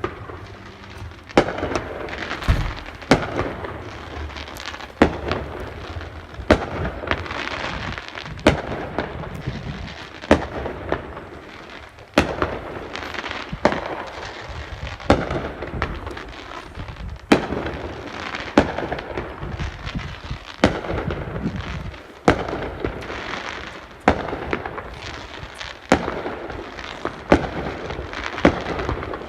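Fireworks display: a sharp bang about every one and a half to two seconds, over a steady rush of noise between the bangs.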